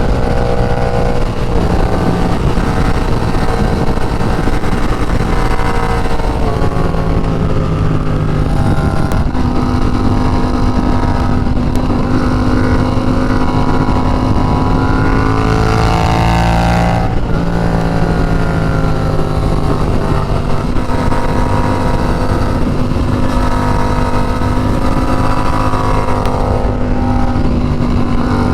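Yamaha FZ-07's parallel-twin engine running at speed, its pitch rising and dropping every few seconds with throttle and gear changes, over a steady rush of wind.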